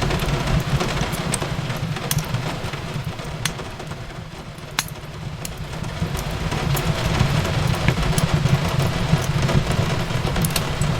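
Wood fire crackling, with scattered sharp pops over a steady low rumble of the flames, mixed with an even hiss of rain on a window. The bed dips a little in the middle and builds back up.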